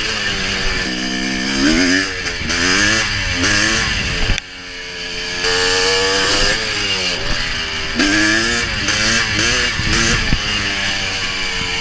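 1987 Honda CR500's two-stroke single-cylinder engine revving hard and falling off again and again as the bike accelerates through the gears. The sound breaks off abruptly about four seconds in, then builds up again, and the pitch falls away near the end.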